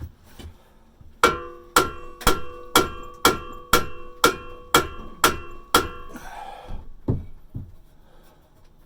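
A hammer striking metal, about ten blows at roughly two a second, each with a ringing metallic tone, followed by a couple of lighter knocks near the end. The blows are driving a tool into a rusted exhaust pipe joint to part the pipe from the muffler.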